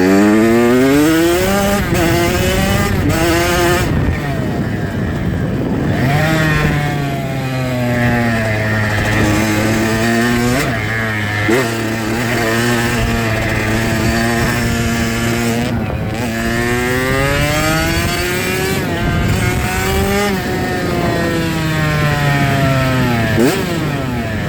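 Dirt bike engine running while ridden, revving up and shifting in the first few seconds, then holding a steady pitch for most of the ride, with another rise and fall in pitch near the end.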